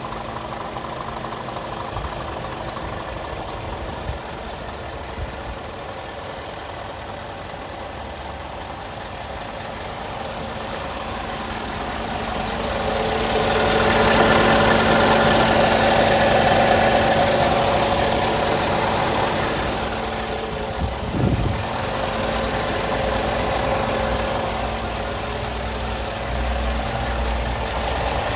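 Scania G440 truck's diesel engine idling steadily. It grows louder for several seconds in the middle, with a short low thump about two-thirds of the way through.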